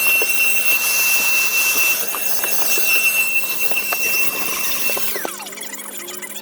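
Handheld power tool running at a steady speed with a high motor whine, then released about five seconds in, its pitch gliding down as it spins down.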